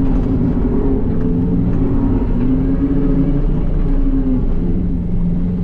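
John Deere 333E skid loader's diesel engine running steadily under load as it works the ditch dirt, its pitch sagging slightly about four seconds in.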